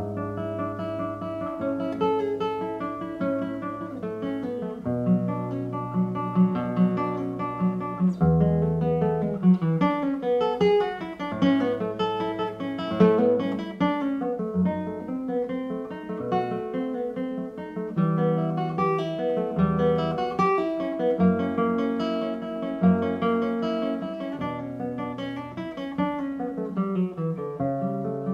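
Acoustic guitar music, plucked and strummed, with a moving bass line.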